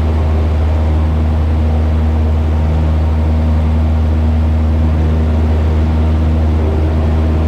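Cessna 172's four-cylinder piston engine and propeller running at steady climb power, heard from inside the cabin as an even, loud drone with a deep steady hum.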